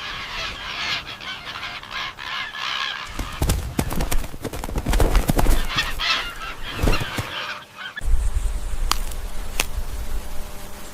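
Waterfowl honking, with the sound changing abruptly about three seconds in and again about eight seconds in, as if between separate clips; the middle stretch is louder, with sharp clicks and a low rumble.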